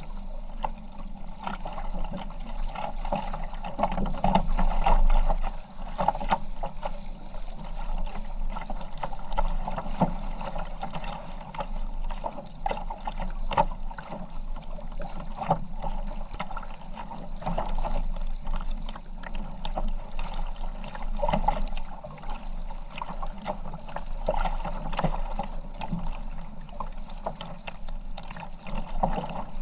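Kayak under way: water sounds of paddling and splashing around the boat, irregular and without a steady rhythm.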